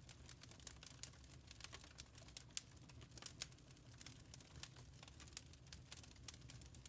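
Wood fire crackling softly in a fireplace: irregular small pops and snaps over a low, steady rumble, with one sharper pop a little before the middle.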